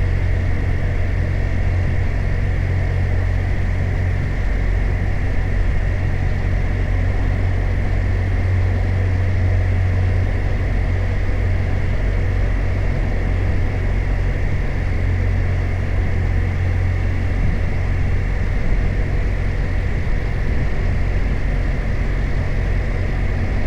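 BMW R 1250 RT motorcycle's boxer-twin engine running at a steady pace on the move, with a steady rush of wind and road noise.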